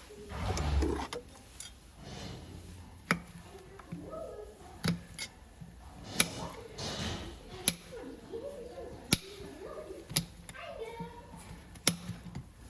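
Sharp knocks, about seven of them at irregular intervals of one to two seconds, under people talking.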